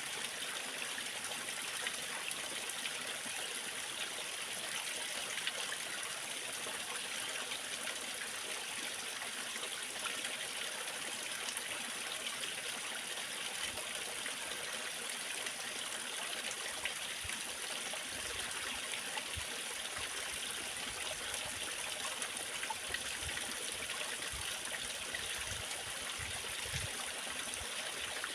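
Waterfall: water pouring and splashing steadily, an even rushing hiss with no change in level. Faint low rumbles come and go in the second half.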